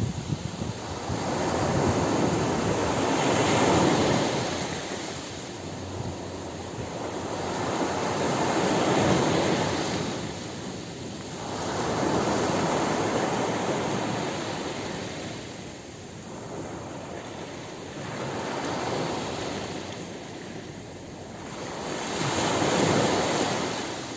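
Ocean surf washing onto a beach: a steady hiss of water that swells and fades as each wave comes in, about every five seconds.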